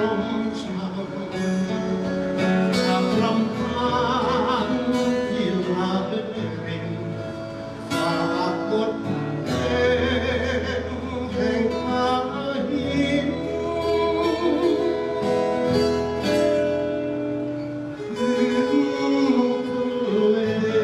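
A song: singing over guitar and band accompaniment, with a bass line entering about six seconds in.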